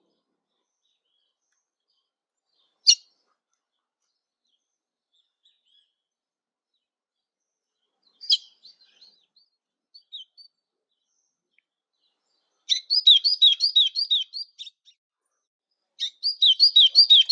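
Songbird singing: a single sharp call about three seconds in, a few scattered chirps, then two bouts of fast, repeated down-slurred notes, about six a second, the second bout starting near the end.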